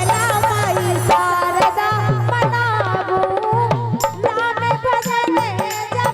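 Instrumental introduction of a Hindi folk song: a wavering, bending melody line over a steady hand-drum rhythm.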